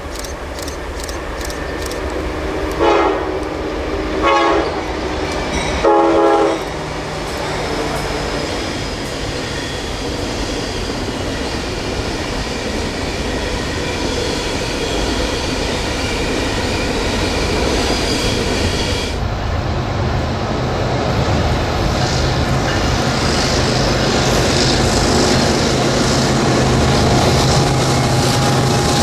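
A train's locomotive horn sounds three short blasts, the last a little longer. Then the train runs past, its rolling rumble and wheel clatter building steadily louder. About two-thirds of the way through, the sound changes abruptly and a steady low hum comes in.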